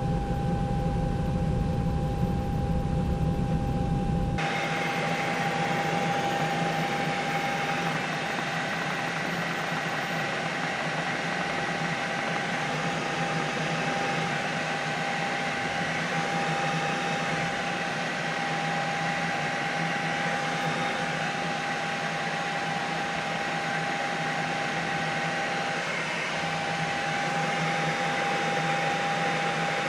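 Helicopter noise: a steady mechanical drone with a constant high whine. About four seconds in the deep low rumble drops out abruptly and a brighter, hissier drone carries on.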